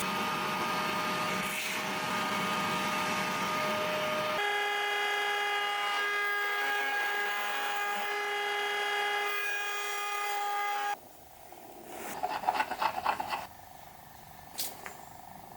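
Workshop tool sounds in edited segments: a rough, steady rubbing noise of abrasive work, cutting about four seconds in to a steady high-pitched power-tool motor whine. After another cut near eleven seconds, quieter, comes a quick run of rattling taps and then a single click.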